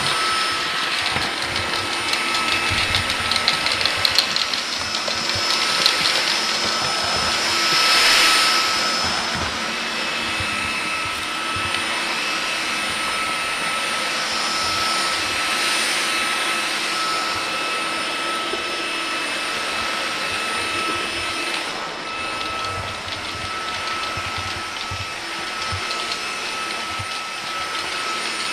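Vactidy cordless stick vacuum cleaner running while vacuuming carpet: a steady rush of air with a high motor whine, briefly louder about eight seconds in.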